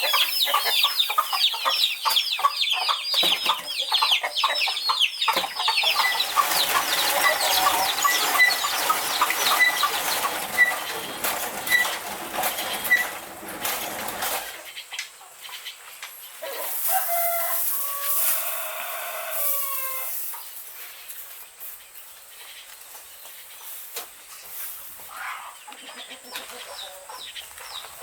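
Chickens clucking and calling in a dense, many-voiced chorus that cuts off suddenly about halfway through. After that come a few separate drawn-out calls and quieter clucking.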